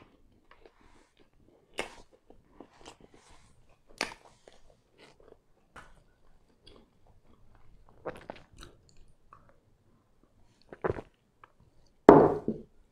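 Close-miked chewing of a mouthful of chicken pan pizza: soft wet mouth sounds with a few sharper smacks. Near the end there is a louder, longer sound as a glass of cola is picked up.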